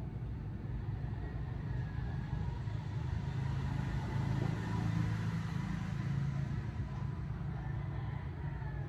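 Motor vehicle running on the road: a steady low engine and road rumble that grows louder around the middle, then eases off slightly.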